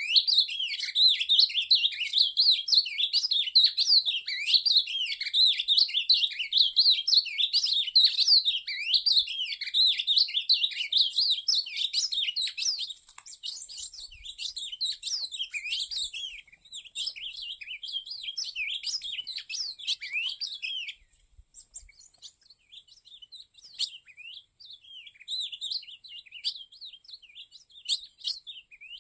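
Ultramarine grosbeak (azulão) singing: a fast, continuous run of high chirps and warbles that thins out after about thirteen seconds and breaks off a little past twenty seconds, followed by a few short scattered phrases near the end.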